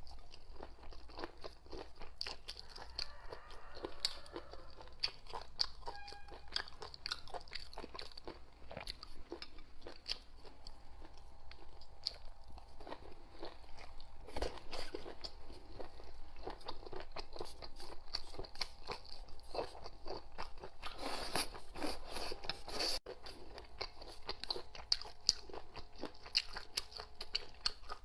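A person eating close to the microphone: crunching and chewing in quick irregular clicks and crackles, with a louder stretch about three quarters of the way through.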